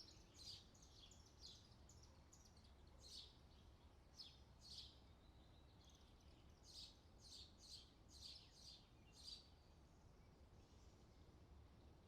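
Faint songbirds chirping: short, high chirps in loose clusters at irregular intervals, over a low, steady background rumble.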